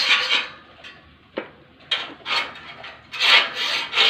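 Repeated rasping, scraping strokes in a rough rhythm. They stop for about a second and a half near the start, with a single sharp click in the gap, then start again, louder towards the end.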